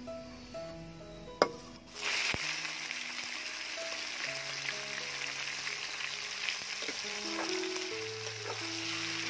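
Raw quail pieces hitting hot oil and garlic in a steel wok: a loud sizzle starts suddenly about two seconds in and keeps going steadily as a spatula stirs them. A sharp click comes just before, and background music plays underneath.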